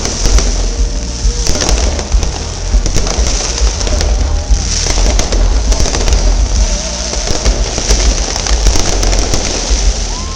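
Fireworks going off in a rapid, continuous string of bangs over a deep rumble, with music playing underneath.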